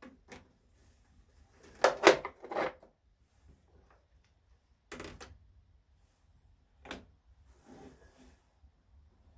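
Intermittent clunks and rattles of hand tools and metal parts being handled during engine tear-down work. The loudest is a cluster of knocks about two seconds in, then single sharp knocks about five and seven seconds in, and a softer rattle near eight seconds.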